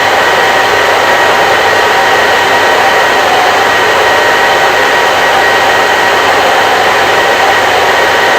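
Electric hair dryer running steadily: a loud, even rush of blown air with a faint steady whine from its motor.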